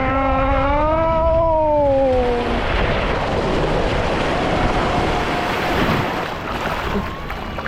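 Rush of water and wind buffeting the microphone on a ride down a mat racing water slide, with a long drawn-out yell from a rider that rises and falls and fades out about two and a half seconds in.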